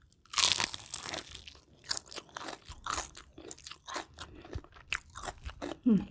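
A person bites into crunchy food with a loud crunch about half a second in, then keeps chewing with a steady run of short crunching chews, recorded close up.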